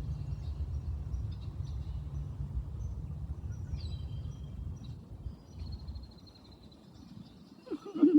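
Small birds chirping with short, high, thin calls over a low rumble that fades out about halfway through. A brief louder sound comes near the end.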